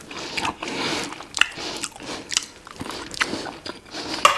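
Close-miked mouth sounds of a man chewing a mouthful of rice and Greek beef patties (biftekia), with irregular wet clicks and smacks.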